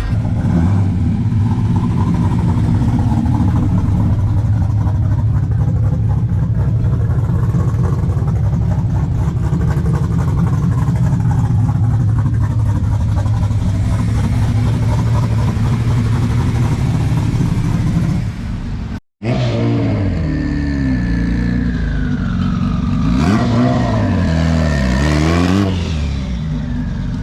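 Car engines running in a deep, steady low rumble as vehicles roll slowly past. After a break about two-thirds of the way in, an engine is revved up and down several times.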